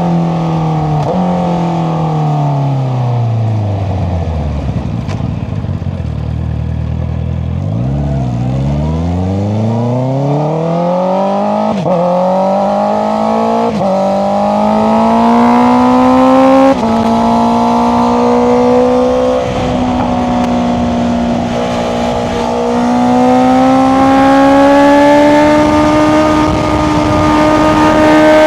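Honda CBR650R inline-four engine through an Akrapovic exhaust with the dB killer removed. The bike slows with the engine note falling to a low burble, then accelerates hard through quick gear changes and settles into a steady higher note that climbs again near the end.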